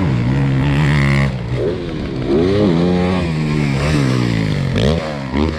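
Motocross dirt bike engines revving on the track, the pitch climbing and dropping again several times as the riders work the throttle and shift.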